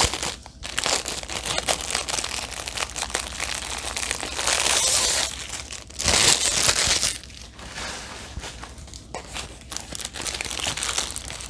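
Plastic packaging of a diamond painting kit crinkling and rustling as it is handled, in irregular bursts with two louder stretches around the middle.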